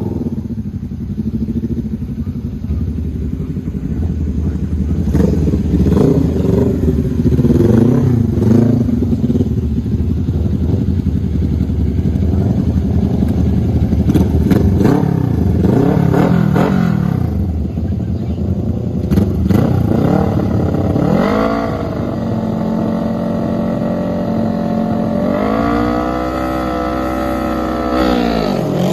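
Mini bike engines revving hard, the pitch climbing and dropping again and again as they go through the gears. In the last several seconds an engine holds a steadier tone with one more rise and fall.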